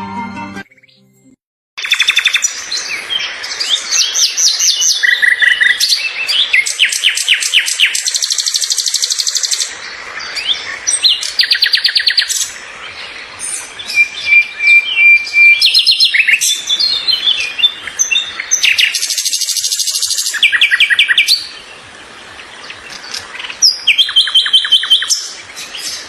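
Birds singing: a loud, varied run of high chirps, rapid trills and held whistles, starting about two seconds in after a brief silence.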